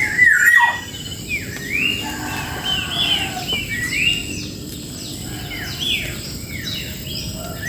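Several songbirds chirping and calling over one another, a busy chatter of short notes that rise and fall, with a faint steady high whine underneath.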